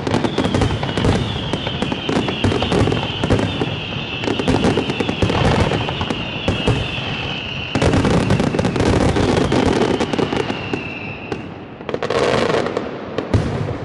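Aerial fireworks display: dense crackling and rapid bangs, over a long high whistle that slowly falls in pitch and stops about eleven seconds in. A fresh cluster of bursts comes near the end as the noise begins to fade.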